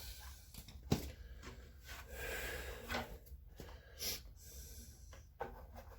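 Hands working on washing machine parts during reassembly: scattered clicks and knocks with rubbing between them, the sharpest click about a second in.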